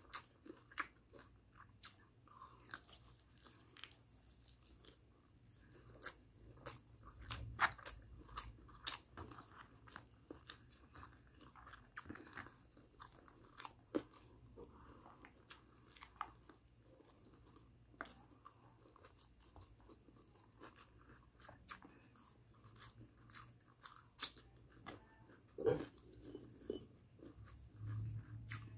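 Close-up eating sounds: barbecue chicken and rice being torn apart by hand and chewed, with crunching and many small sharp clicks scattered throughout.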